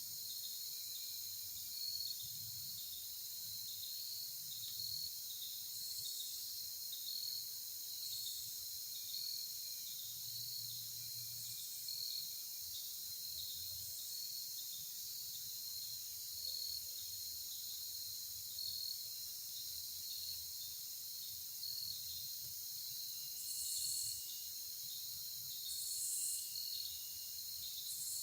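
Steady outdoor chorus of crickets and other insects: a continuous high trill with a faint regular pulse, joined by short louder hissy bursts, three of them near the end, and a few short high thin notes.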